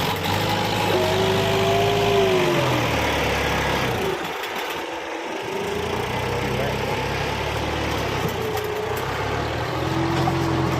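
Kubota tractor's diesel engine running as it pulls a sugarcane planter, its note rising and falling and dropping away briefly about four seconds in before coming back.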